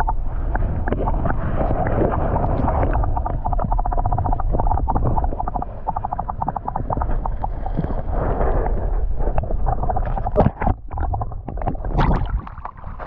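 Muffled underwater rushing and gurgling of flowing creek water, heard through a GoPro held beneath the surface, with a constant low rumble and dense crackling. A few sharper knocks and splashes come near the end.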